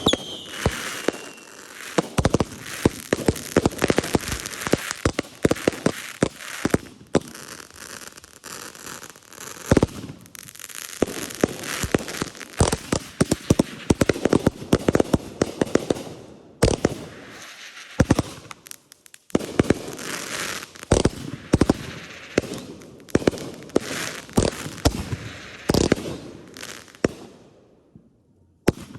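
Consumer fireworks going off nonstop: sharp bangs, many close together, over steady crackling. A falling whistle fades out in the first second or two, and the barrage pauses briefly twice and again near the end.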